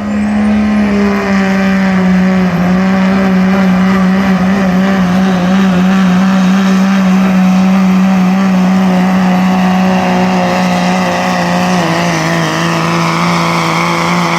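Turbocharged diesel pickup truck at full throttle, pulling a weight-transfer sled. The engine holds high, steady revs that sag a little twice as the load builds, then drops off suddenly right at the end as the driver lets off.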